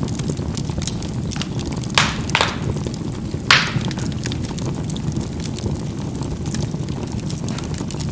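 Charcoal burning in a fireplace: a steady low rumble of the fire with scattered small crackles, and three sharper pops of the charcoal bursting, two close together about two seconds in and one about three and a half seconds in.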